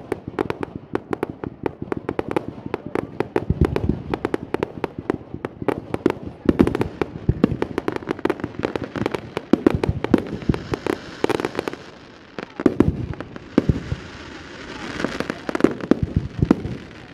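Fireworks going off in a rapid barrage, many pops and bangs a second, with stretches of crackling fizz about two-thirds of the way through and again near the end, and a brief lull between them.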